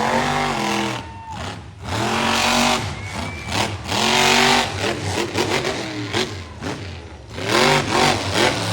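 Monster truck engine revving hard in about four bursts, each rising in pitch and falling away.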